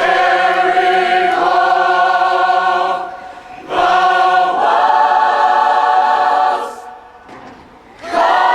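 Choir singing long, held chords in two phrases, with a short breath break about three seconds in and another near the end.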